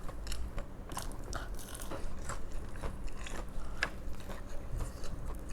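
Close-up chewing and crunching of crispy fried chicken: a run of irregular, crisp crackles with soft chewing between them.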